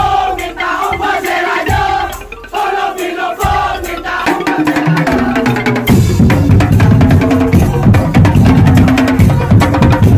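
Madurese tong-tong (ul-daul) ensemble playing: a wavering melody line over sharp clicking strokes, then about six seconds in the full band of wooden slit drums and drums comes in loud and dense.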